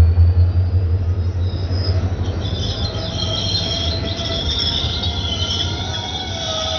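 Express train hauled by a WDM3A diesel locomotive running by, with a heavy low rumble that fades over the first second or two. High-pitched steel wheel squeal sets in about two seconds in and carries on.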